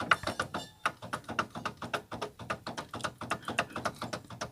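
Gearshift linkage arms on a Ford Fiesta Rocam's gearbox being worked back and forth by hand, giving a rapid run of metal-on-metal clicks, about six or seven a second. The clicking is the owner's shifting noise reproduced. He puts it down to excessive play in the arms, whose bushings he judges dried out and worn.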